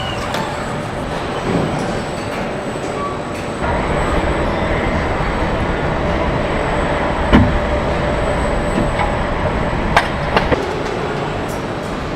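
Steady mechanical rumble and hiss that gets louder about three and a half seconds in, with a sharp knock near the middle and a few clicks later.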